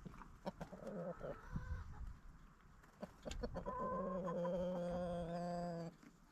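Chickens clucking in short calls, then one long, drawn-out call of about two seconds in the second half that stops abruptly.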